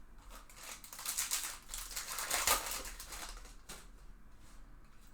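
Trading-card packs and cards being handled: a run of crinkling and rustling, loudest from about one to three seconds in, then trailing off into light ticks.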